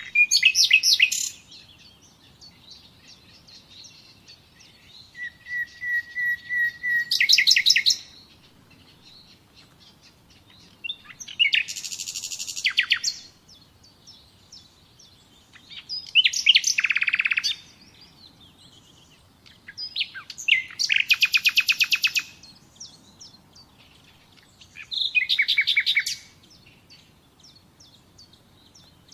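Songbird singing in short, varied phrases, each a rapid trill or run of high notes lasting one to three seconds, with pauses of a few seconds between them.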